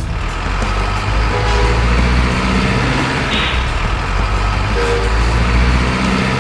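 Truck engine running with a steady low rumble, and a short hiss about three and a half seconds in.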